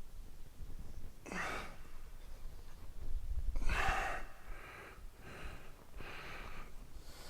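A man breathing hard from exertion, a series of heavy, noisy exhalations a second or so apart, the loudest about four seconds in.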